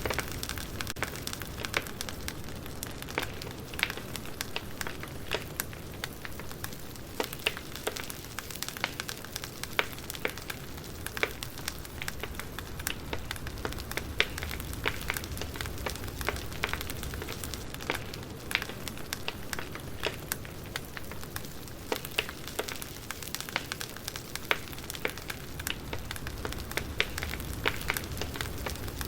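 Wood fire crackling: logs burning with frequent irregular sharp pops and snaps over a steady low rumble and hiss.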